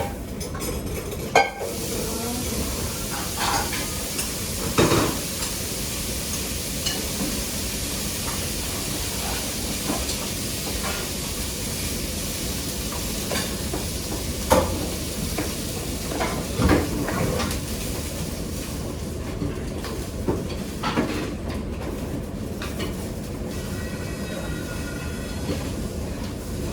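A steady rushing hiss with a few separate knocks and clinks of kitchen utensils and dishes spread through it. Faint steady tones come in near the end.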